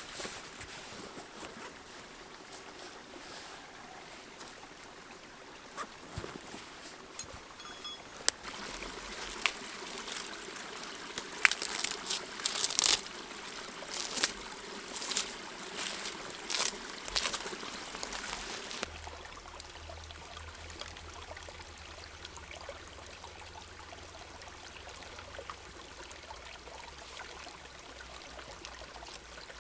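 Creek water trickling and flowing steadily, with a run of sharp clicks and snaps in the middle.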